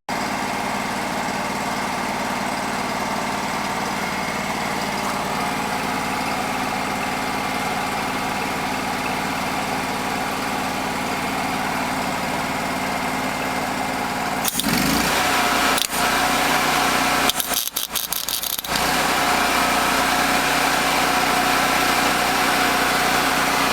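An engine running steadily at idle, a constant hum that gets louder about two-thirds of the way through, with a couple of brief dips soon after.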